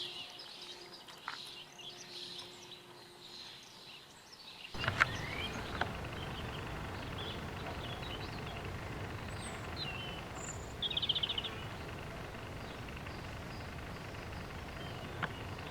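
Wild birds chirping and singing. About five seconds in, a steady rushing noise starts abruptly and continues under the birdsong.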